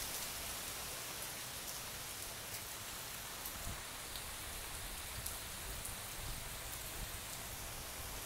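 Heavy tropical-storm rain falling on a swimming pool and its concrete deck: a steady hiss with scattered drop ticks.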